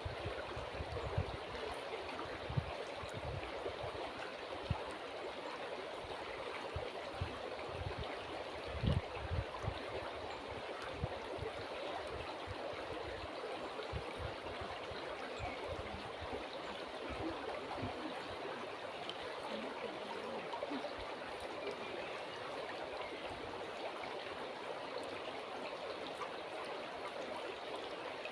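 River water flowing, a steady even rush and babble, with occasional low thumps in the first half.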